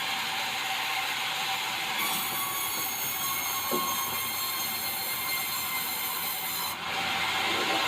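Swing-blade sawmill's circular blade running through white meranti timber, a steady loud sawing noise. About two seconds in, a set of high, steady ringing tones joins it, and they stop shortly before the end.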